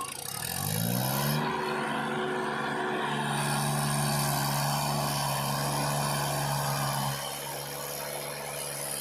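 Diesel engine revving up over about a second, holding at high revs, then easing back down about seven seconds in.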